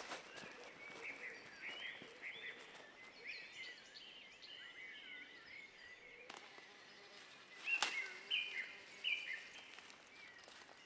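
Small birds singing outdoors, many short phrases gliding up and down over faint background noise. About eight seconds in, a sharp click and a louder run of short chirps.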